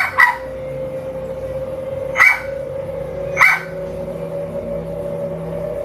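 Dogs barking, recorded by a Ring doorbell camera's microphone: a quick double bark, then two single barks a little over a second apart, over a steady low hum.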